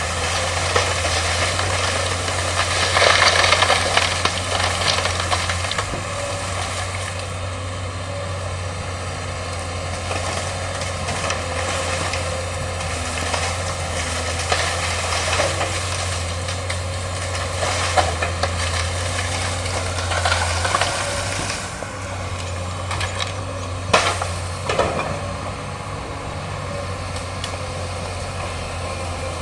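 Excavator's diesel engine running steadily under a constant low hum, while bamboo cracks and snaps as it is crushed and pulled out. A burst of crackling comes about three seconds in, and single sharp cracks come later on; the engine hum eases a little about two-thirds of the way through.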